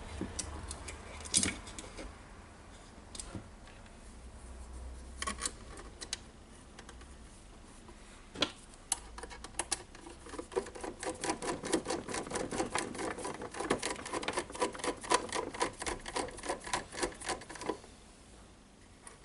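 Screwdriver driving screws into the plastic housing of a DeWalt site radio: a few scattered clicks and taps, then from about halfway a fast, even run of sharp clicks for several seconds that stops shortly before the end.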